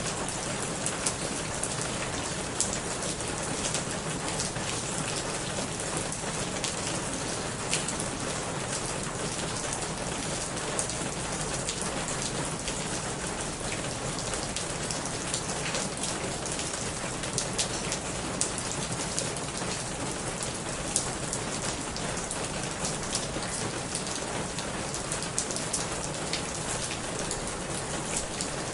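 Steady rain falling, an even hiss broken by frequent sharp hits of single drops close by.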